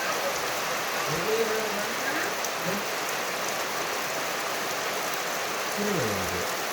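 Steady rain falling, an even hiss of rain on surfaces, with a few faint pitched sounds in the background.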